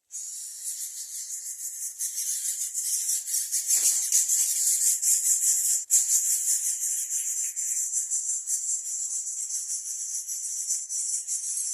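Insect chorus: a dense, steady, high-pitched buzz with a fast pulsing texture.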